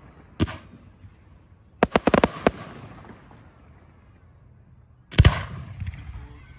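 Aerial firework shells bursting with sharp bangs: one about half a second in, a quick cluster of about four around two seconds, and a heavy boom just past five seconds with a rolling echo and light crackling after it.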